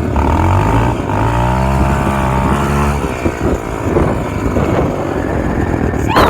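SSR 125 dirt bike's single-cylinder engine running as it is ridden: an even note for about three seconds, then rougher and uneven. A sharp bump near the end.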